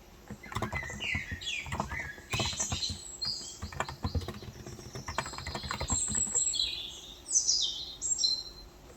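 Keystrokes on a Cox Endeavor 35 g electro-capacitive (Topre-style) keyboard, a quick run of soft clacks that stops about two-thirds of the way through, with small birds chirping throughout in quick falling notes, loudest near the end.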